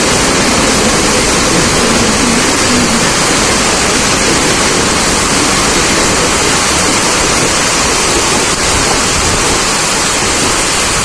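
Loud, steady rushing noise of a Mumbai suburban local train running through heavy rain.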